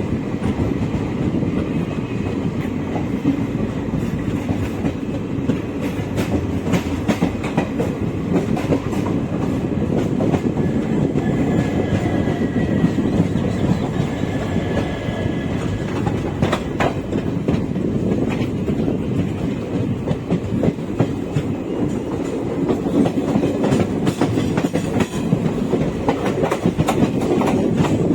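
Express passenger train running on the rails: a steady rumble of the coaches with the wheels clicking over rail joints all along, and a faint high whine briefly in the middle.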